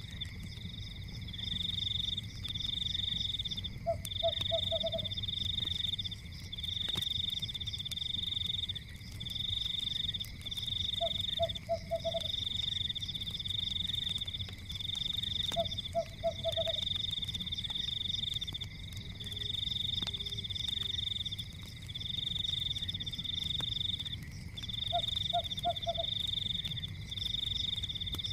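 A night chorus of frogs: a high-pitched trill repeating in phrases of about a second throughout, with a lower croak of three or four quick pulses every few seconds. A steady low rumble runs underneath.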